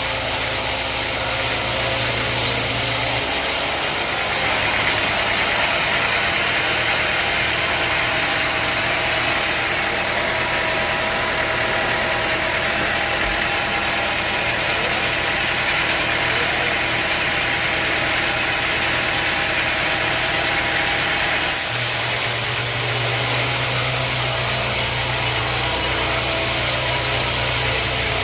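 Sawmill machinery running steadily with an engine-like hum. From about three seconds in until about seven seconds before the end, the hum drops back and a harsher hiss rises over it, as when a saw blade is cutting through a log.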